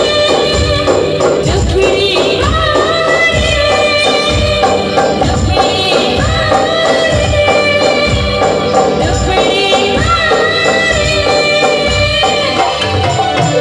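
Live folk music: dafli frame drums with jingles beating a steady rhythm under sung melody lines.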